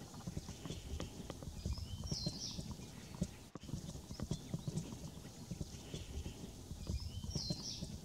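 Brief high-pitched bird calls, twice, about two seconds in and near the end, over irregular low knocking and rumbling.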